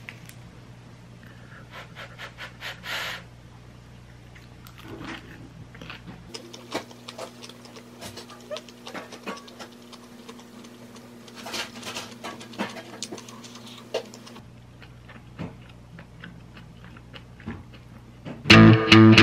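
Close-up eating sounds of bean sprout and mushroom stir-fry: chewing, mouth noises and chopsticks clicking, many small irregular clicks over a faint steady hum. Loud guitar music starts near the end.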